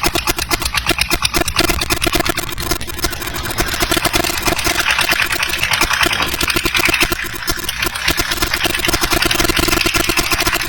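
A heavy vehicle's engine running, its firing heard as a fast, even pulse.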